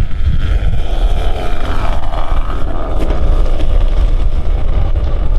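Motors of a large radio-controlled C-5 Galaxy model whining as it flies, the pitch rising over a couple of seconds, over heavy wind rumble on the microphone.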